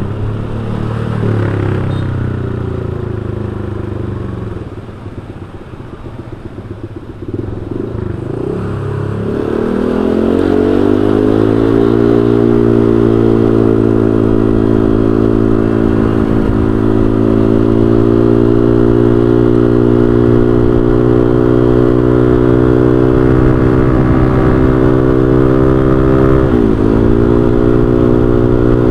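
Honda Vario 125 scooter's single-cylinder engine, through an aftermarket racing exhaust, under way: the note is lower and uneven for the first several seconds, climbs in pitch about ten seconds in, then holds a steady cruising drone. Near the end the pitch dips briefly and comes straight back up.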